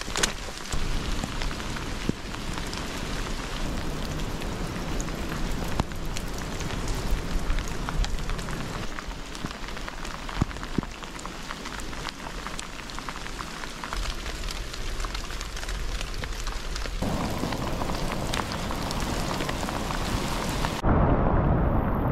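Steady rain falling on the forest floor and into puddles, with many single drops ticking close by. Near the end it changes abruptly to a heavier, duller rush.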